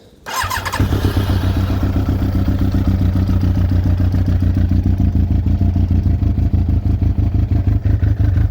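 Yamaha YZF1000R Thunderace's inline-four engine turned over by the starter with a brief whine, catching and then running steadily before cutting off suddenly at the end. Its carburettors are freshly rebuilt, and the owner wonders whether they are out of sync.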